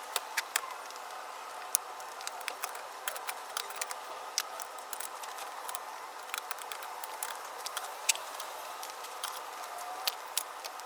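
Hand tools being handled, with many light, irregular clicks and clinks over a steady hiss.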